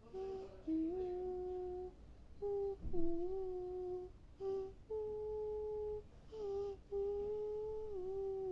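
A person humming a slow tune in held notes, phrase by phrase with short breaks between them and small slides in pitch from one note to the next.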